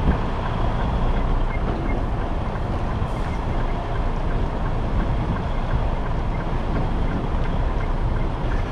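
Freightliner semi truck's diesel engine running, heard as a steady low rumble inside the cab.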